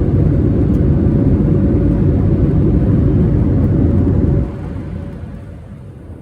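Airliner cabin noise in flight: a steady low rumble of engines and airflow with a faint steady hum. It drops suddenly about four seconds in and fades.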